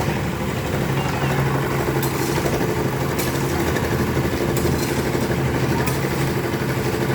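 Isuzu Elf dump truck's diesel engine running steadily with an even hum, with a few sharp clicks over it.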